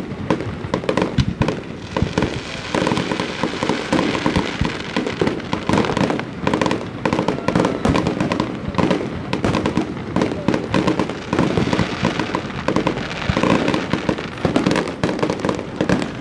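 Fireworks display: a dense, unbroken run of cracks and bangs throughout.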